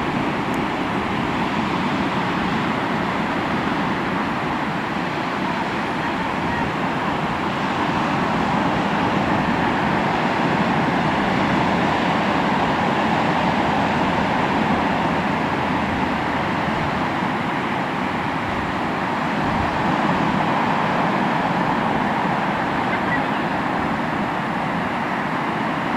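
Sea waves washing onto the shore in a continuous rushing surf, swelling and easing slowly every several seconds.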